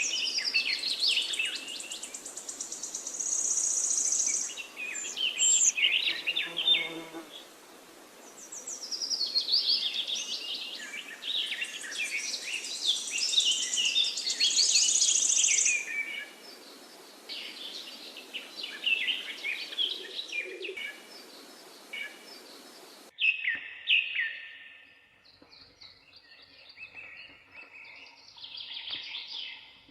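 Forest birds singing: several overlapping chirps, whistles and trills over a steady background hiss. About two-thirds of the way through, the hiss cuts out abruptly, leaving fewer, quieter calls.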